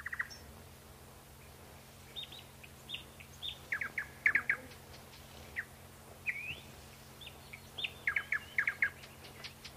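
Small birds chirping: scattered short, quick chirps, some in fast runs of three or four, starting about two seconds in and getting busier near the end.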